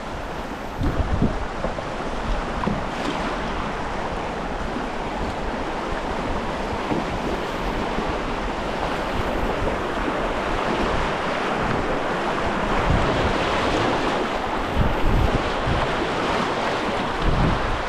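Rushing whitewater of a river rapid as a canoe runs through it, with wind buffeting the microphone in low thumps. A steady rush that grows slightly louder in the second half.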